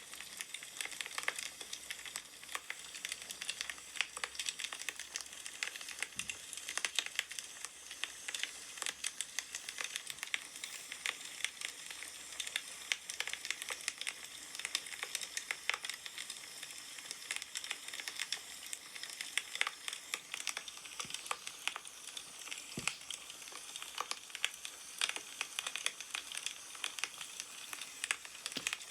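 Firewood burning, crackling with irregular sharp pops over a steady hiss.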